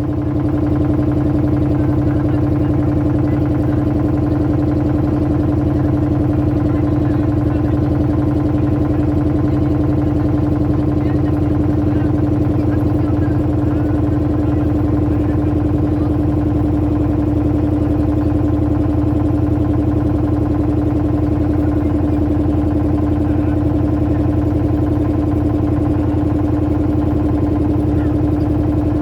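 Motorboat engine running steadily at a constant speed, a continuous droning hum.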